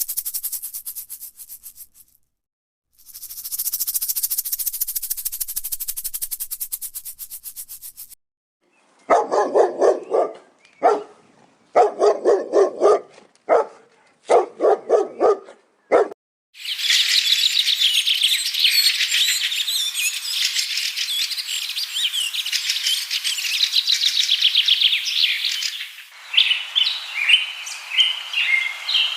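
A string of different animal sounds: a high, rapid buzzing in two spells, then several short bursts of low, pulsed croaking calls, then a dense chorus of bird chirping that breaks into separate chirps near the end.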